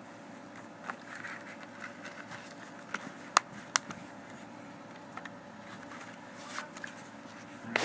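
Light plastic clicks and taps from handling a Blu-ray case and its discs, scattered through, with two sharper clicks in the middle, over a faint steady room hum.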